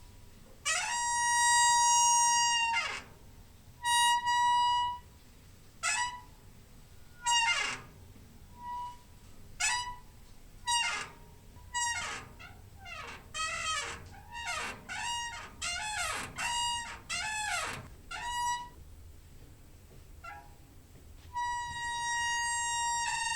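Squeaky door hinge creaking over and over in high-pitched squeaks. Some are held steady for a second or two; others slide quickly down or up in pitch. A quick run of short gliding squeaks comes about halfway through, and a long steady one near the end.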